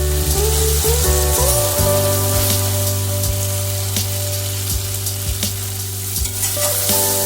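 Food sizzling as it fries in a pan, with scattered small pops, under background music of held tones.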